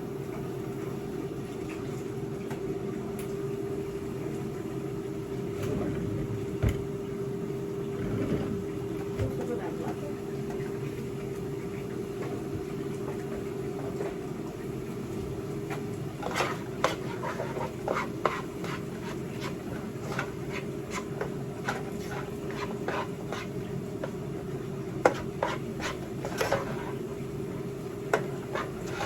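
A steady low mechanical hum in the kitchen, with dishes and utensils clinking and knocking together from about halfway through, a few sharper clacks near the end.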